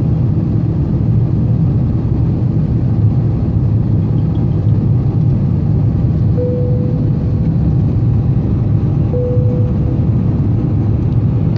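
Steady cabin rumble of an Airbus A350 in climb, its Rolls-Royce Trent XWB engines and the airflow heard from a seat over the wing. Two short steady tones sound over it, one about six seconds in and one about nine seconds in.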